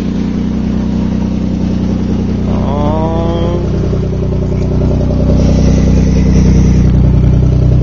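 Nissan 300ZX's V6 engine running steadily, growing somewhat louder a little past halfway through.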